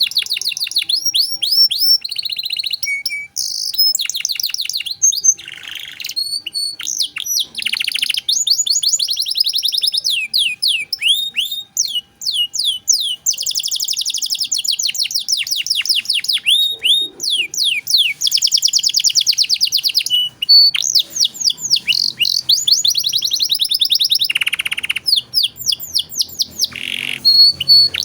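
Domestic canary singing a long, unbroken song of rapid trills: fast runs of repeated falling whistled notes, switching from one roll to another every second or two.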